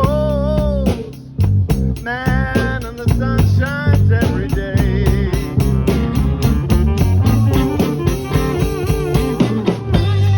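A band playing slow electric blues: an electric guitar plays lead lines with string bends over bass guitar and a drum kit keeping a steady beat.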